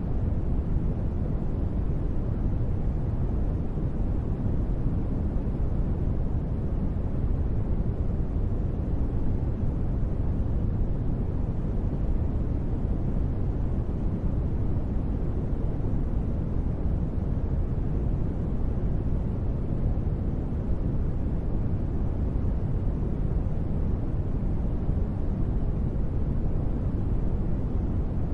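Steady, unchanging space-ambience noise: a deep rumbling hiss, heaviest in the bass and fading out toward the treble, with no events or rhythm.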